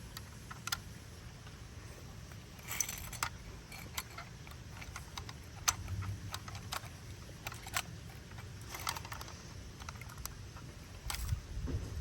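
Toy garbage truck being handled: scattered light clicks and a few short plastic rattles and clatters, over a low steady hum.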